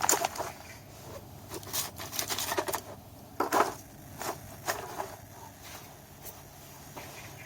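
Kindling wood being worked by hand with a knife: a series of irregular scrapes and cracks, with the loudest about three and a half seconds in.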